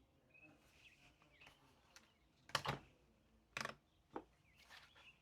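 A few short, sharp clicks and taps, about four in all, the two loudest about two and a half and three and a half seconds in, over faint room tone.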